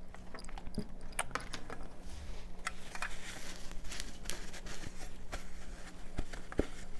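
Scattered light clicks and taps of small objects being handled on a tabletop, over a steady low hum.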